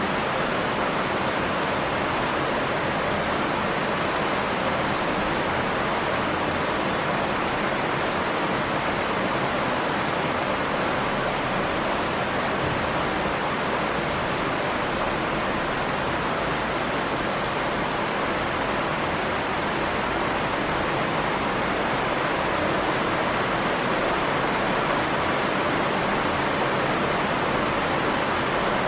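Steady rain falling: an even hiss that stays the same throughout.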